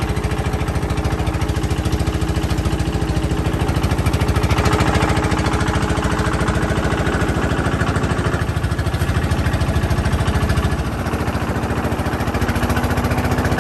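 A small boat's engine running steadily with an even chugging beat, its pitch settling slightly lower about eleven seconds in.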